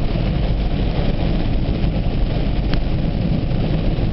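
Car driving through heavy rain, heard from inside the cabin: a steady rumble of engine and tyres on the wet road under an even hiss of rain. One light tick about two and a half seconds in.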